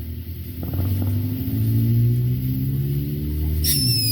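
A motor vehicle's engine running nearby, rising in pitch about a second in and dipping briefly near the end, with a short high falling whistle near the end.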